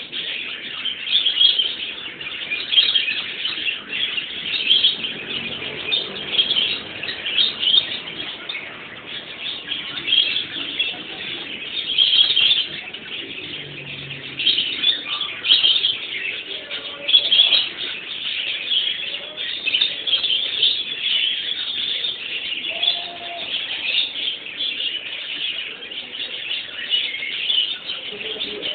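Small birds chirping and twittering continuously in quick, irregular bursts.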